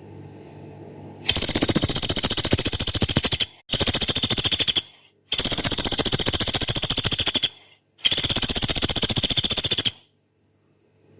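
Pelatuk beras, a small pygmy woodpecker, giving four long, harsh, high-pitched rattling calls one after another. Each is a very fast run of notes lasting one to two seconds, separated by short pauses. A faint low hum comes before and after.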